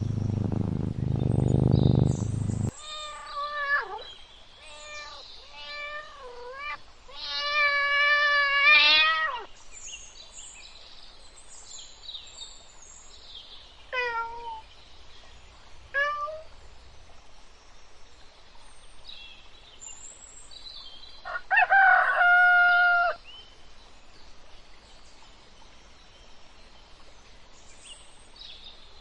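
A string of separate animal calls with pauses between: cat meows and a rooster crowing. It opens with a deep, low sound, and the longest, loudest calls come about 8 and 22 seconds in.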